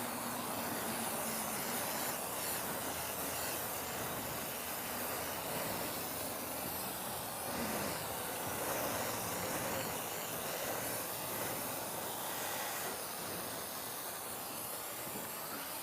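Foam lance of a self-service wash bay spraying pre-wash foam, a steady hiss.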